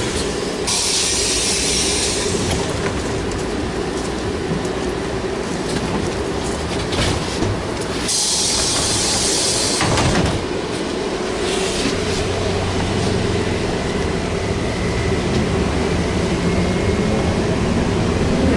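A VMZ-5298.01 trolleybus heard from on board: the steady hum of its electric drive with rattling from the body. Two loud bursts of hiss come through, one about a second in and another about eight seconds in.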